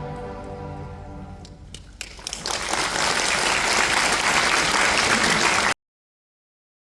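An orchestra's final held chord dies away, a few scattered claps break in, and then audience applause builds and carries on until the recording cuts off suddenly.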